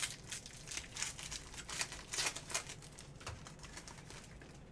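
Trading cards and their plastic being handled: a quick run of soft rustles, flicks and clicks that thins out after about three seconds.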